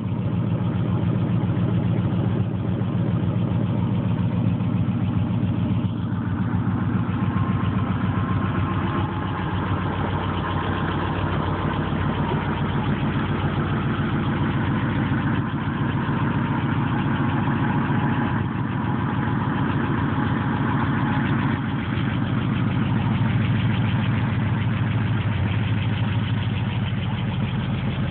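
1932 Ford truck engine idling steadily.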